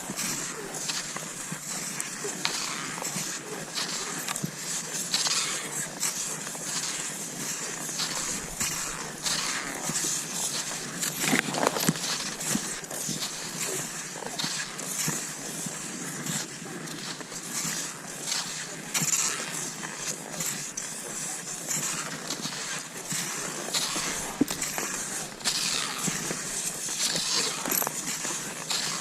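Cross-country skis sliding and crunching over snow, with many short, irregular scrapes and crunches.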